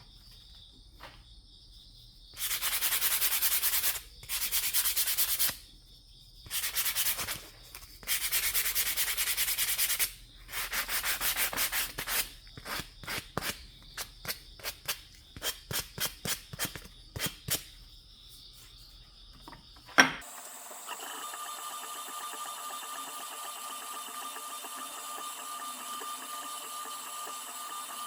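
Sandpaper rubbed by hand over a piece of cherry wood: several long strokes, then a run of short, quick strokes. About 20 seconds in, a sharp click, and a steady machine hum with a high whine takes over.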